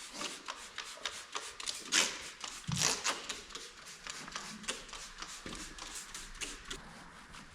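A run of light, irregular clicks and rattles, as of hands handling small parts or tools, with a louder cluster about two to three seconds in, growing sparser near the end.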